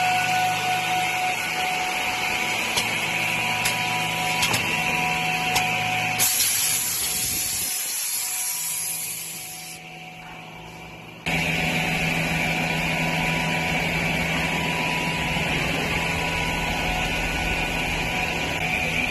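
Automatic edge banding machine running with a steady mechanical hum and a few light clicks. About six seconds in a high hiss starts, then the sound drops lower for a few seconds before the running comes back abruptly near the middle.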